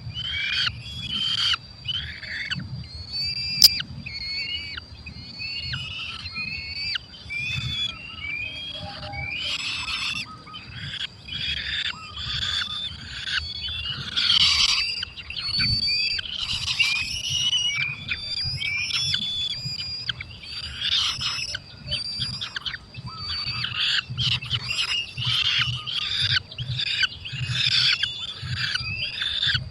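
Falcons calling at the nest: a long, unbroken run of short, high-pitched calls, several a second and often overlapping, some wavering or gliding in pitch. A single sharp click sounds about three and a half seconds in.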